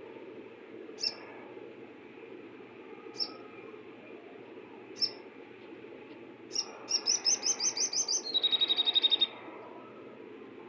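Crimson sunbird (sogok ontong) singing: four single high chirps about two seconds apart, then a quick run of high trilled notes that drops into a slightly lower, faster trill and stops, over a steady hiss.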